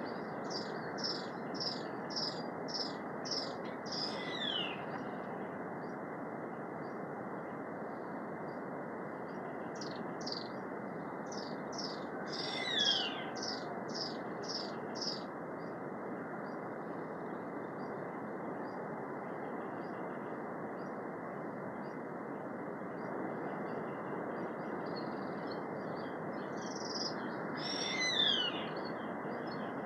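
Forest birds calling: a run of high chirps repeated about twice a second, and a high call that falls steeply in pitch, heard three times and loudest near the end, over a steady background rush.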